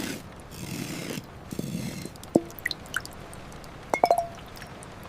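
Water dripping: a few separate drops falling into water, several with a short pitched plink, the clearest about four seconds in, after a soft rushing hiss in the first two seconds.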